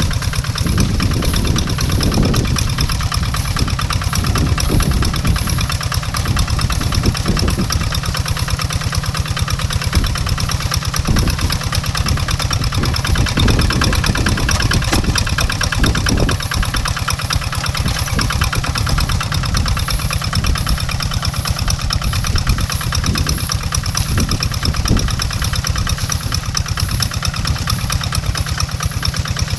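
Tractor engine running steadily under load while tilling farm soil, a fast even chugging throughout.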